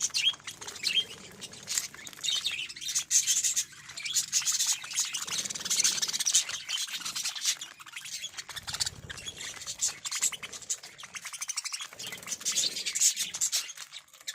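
Budgerigars chattering and warbling: a dense, continuous stream of quick high chirps.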